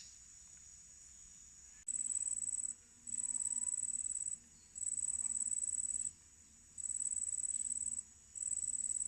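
A high-pitched, cricket-like insect trill in the forest. It starts faint and steady, and about two seconds in a much louder trill takes over, coming in five bouts of about a second each with short breaks between them.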